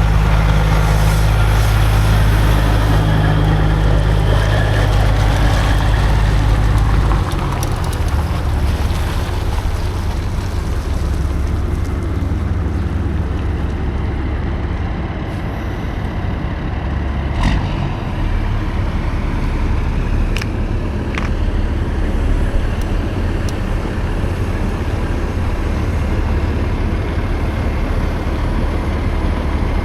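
Semi-truck diesel engine running steadily. About seven seconds in, the deep engine note changes and gets a little quieter, and a few short clicks come later.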